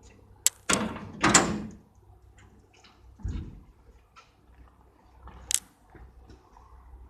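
Sharp clicks and knocks, with about a second of loud rattling scrape near the start and a dull thud about three seconds in.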